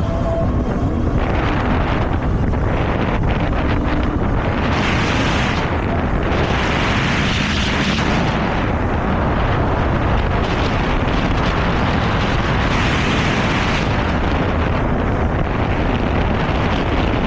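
Wind buffeting the microphone of a moving e-bike rider: a loud, steady rumble with hissing swells that rise and fall every few seconds.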